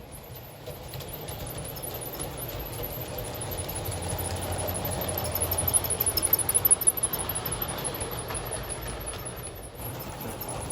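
G-scale LGB model train running along its track, a rumble and rattle of wheels and motor that grows louder as it passes close, loudest a little past the middle.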